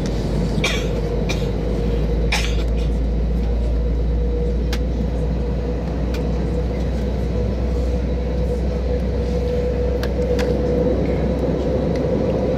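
Airbus A321 jet engine running steadily: a low rumble with a steady hum over it, and a few light clicks in the first seconds.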